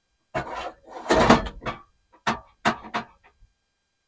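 A car stereo being pushed and worked into its dash mounting sleeve: scraping and rubbing for a couple of seconds, then three short sharp clicks or knocks as it seats.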